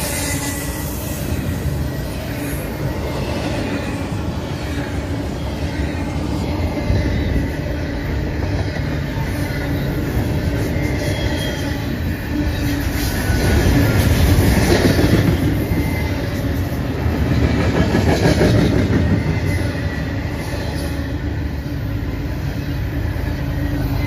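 Double-stack intermodal freight train passing close by: its wheels rumble and clatter steadily over the rails, and the sound swells louder twice in the middle.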